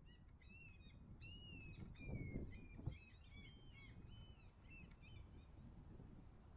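A songbird singing: a quick run of clear, slurred whistled notes, then a brief high buzzy trill, over a faint low rumble.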